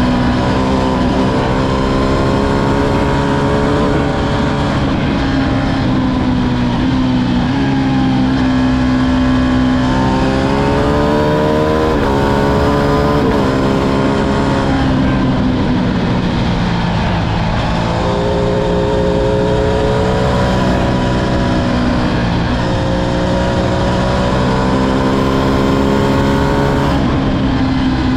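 Ducati Streetfighter V2's 955 cc Superquadro V-twin engine running under a rider, its pitch rising and falling repeatedly as the throttle is opened and eased off.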